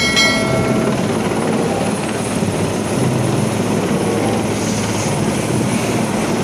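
Large helicopter flying low overhead, with steady, loud rotor and engine noise.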